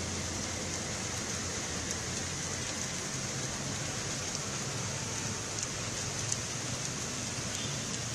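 Heavy rain falling steadily on a road, with vehicles driving past on the wet surface under the hiss of the rain.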